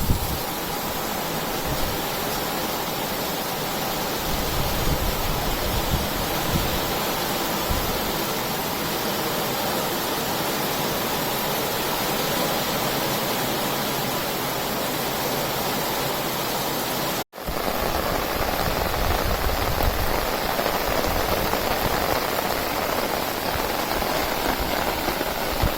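Heavy rain pouring down steadily, a dense even hiss that breaks off for an instant a little past halfway.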